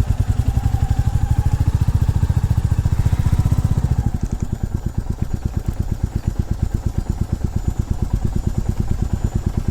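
Single-cylinder motorcycle engine running at low revs with an even pulsing beat, easing off about four seconds in to a slower, quieter beat.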